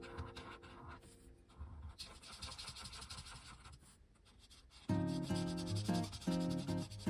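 Soft background music fades, leaving a few seconds of faint scratching as alcohol markers are stroked across paper. About five seconds in, the music comes back abruptly with a repeating pattern of pitched notes.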